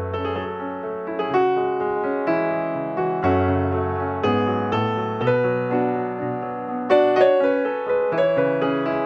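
Piano music: a slow melody with a new note or chord about once a second over held low bass notes.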